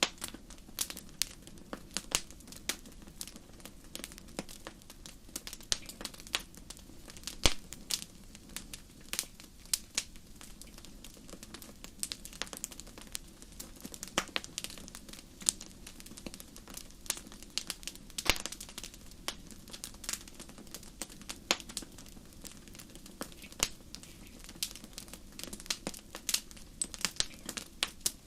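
Campfire crackling: burning wood giving irregular sharp pops and snaps, several a second, some much louder than others, over a faint steady low background.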